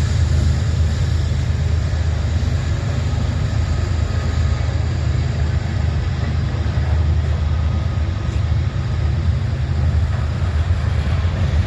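Freight train rolling past at close range: a steady low rumble of wheels on rail.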